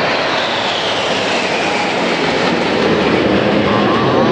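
Red Arrows' BAE Hawk jets flying past in formation: a loud, steady jet roar with a high whine that slowly falls in pitch.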